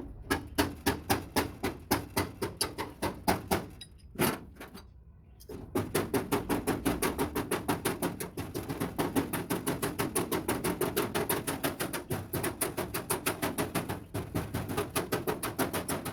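Hammer beating sheet-metal cab bodywork with quick, regular blows, about four or five a second. There is a short pause about four seconds in, then the hammering resumes slightly faster and keeps going.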